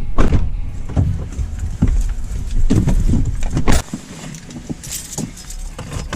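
A vehicle's low rumble with scattered clicks and knocks, dropping noticeably quieter a little under four seconds in.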